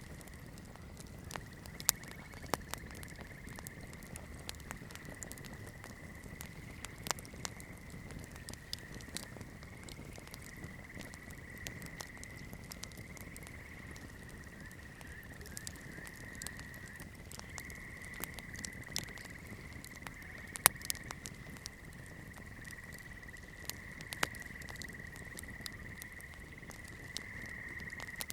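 Wood campfire crackling, with irregular sharp pops and one louder pop about two-thirds of the way in. A steady high-pitched trill runs underneath.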